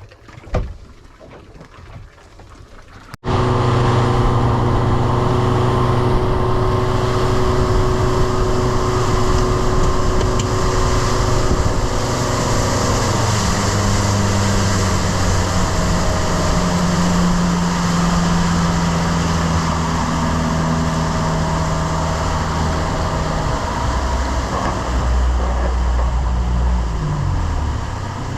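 Boat's outboard motor running at speed, cutting in abruptly about three seconds in over a rushing hiss; its pitch steps a few times and drops near the end as the boat slows.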